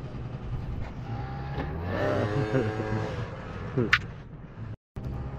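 Motorcycle engines running at the track over a steady low hum. Around the middle one engine rises and falls in pitch, and just before four seconds there is a sharp rev climbing high. The sound cuts out briefly near the end.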